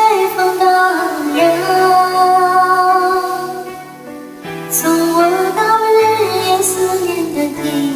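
A choir sings a slow, tender song in long held notes over a steady instrumental accompaniment. The sound briefly softens about four seconds in.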